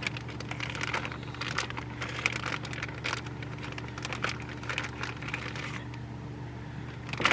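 Crinkling and rustling of plastic food packaging being handled, with many small irregular clicks and crackles, over a steady low hum.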